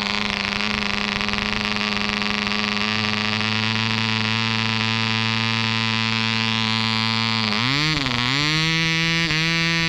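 Webra 1.5cc two-stroke model diesel engine running throttled back at a steady low speed. About three-quarters of the way through it briefly sags, then picks up to a higher speed as the throttle is opened.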